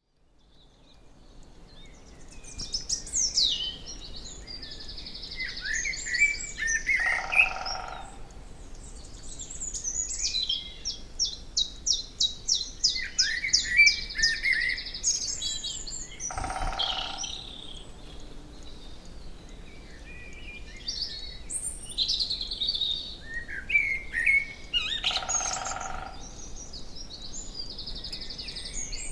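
A great spotted woodpecker drums three times, each roll about a second long and roughly nine seconds apart. Songbirds sing throughout, including a fast trill of repeated notes.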